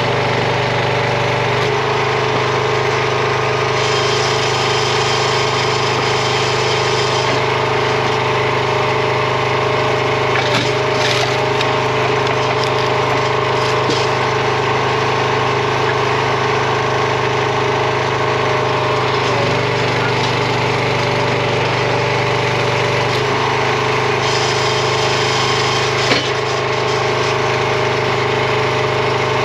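Small gas engine of a RuggedMade hydraulic log splitter running steadily, its tone shifting a few times as the splitter is worked, with a couple of short knocks.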